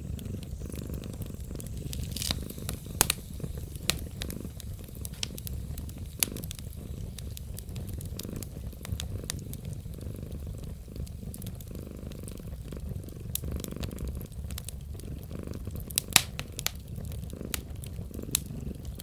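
A wood fire crackling with scattered sharp pops, over a steady low cat purr.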